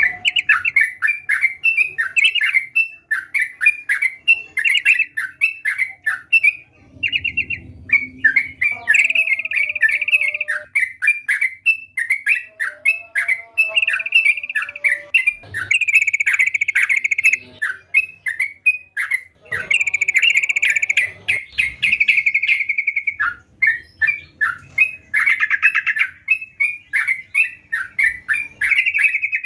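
Yellow-vented bulbul (trucukan) singing vigorously: rapid runs of short chirping notes, broken every few seconds by longer run-together chattering phrases.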